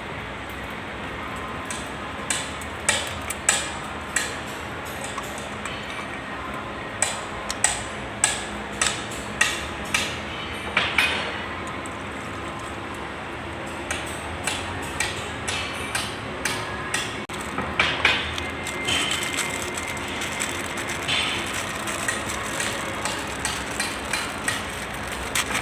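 Repeated sharp taps on metal, coming in runs of about two a second with pauses between, over a steady low hum.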